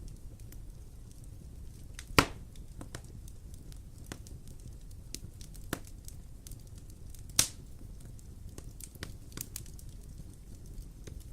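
Wood fire burning in a fireplace: a low steady rumble of flames with scattered small crackles and two loud sharp pops, about two seconds in and again about seven seconds in.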